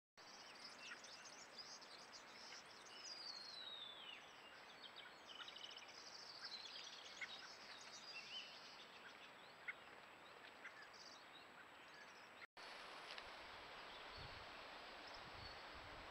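Faint wild birds chirping and calling, with one falling call about three seconds in, over a trail camera microphone's steady hiss and a thin high electronic whine. After a brief cut about twelve seconds in, mostly just the hiss remains.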